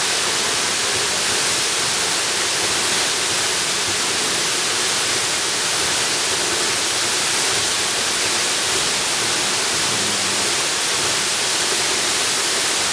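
Jungle waterfall: a steady rush of falling water, even and unbroken, with most of its hiss in the high end.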